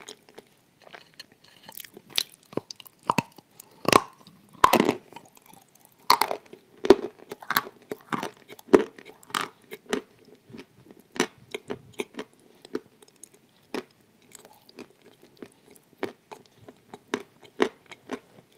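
Close-miked chewing and crunching of a hard pressed dessert tile: irregular crisp crunches throughout, the loudest cluster about four to five seconds in.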